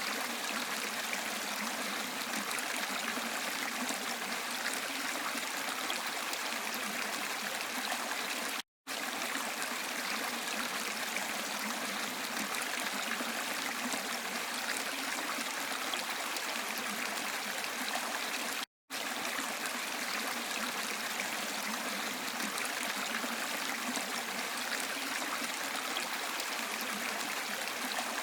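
Steady rush of running water, like a stream or small waterfall, broken by two brief cuts to silence about 9 and 19 seconds in.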